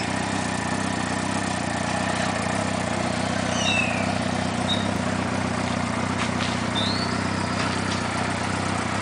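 2006 Suzuki GSX-R's inline-four engine idling steadily. A few short high chirps come in about halfway through and again near seven seconds.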